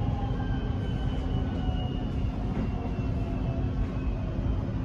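Interior of a Metro X'Trapolis electric train arriving at a station: a steady low rumble from the wheels and running gear, with faint high whining tones that drift slightly downward.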